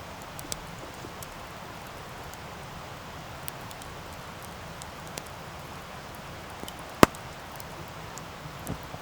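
Wood campfire crackling: a steady low hiss with scattered small sharp crackles, and one loud pop about seven seconds in.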